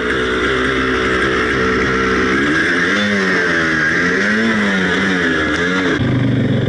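Honda enduro motorcycle engine running close by, held at steady revs at first, then revved up and down unevenly from about two and a half seconds in as the throttle is worked to get the bike over the rocks.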